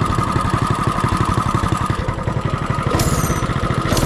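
Mini bike's 196cc single-cylinder engine running steadily with an even pulsing beat, with a sharp snap about three seconds in.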